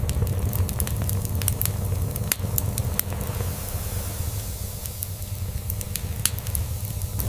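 Wood log fire crackling, with frequent sharp pops and snaps, over a steady low purring hum of a cat purring.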